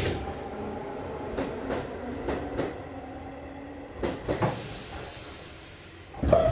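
Interior running sound of an Izu Hakone Railway Series 3000 electric train at low speed: a steady rumble with pairs of wheel clacks over rail joints, each pair about a third of a second apart, three times. A heavier thump comes near the end.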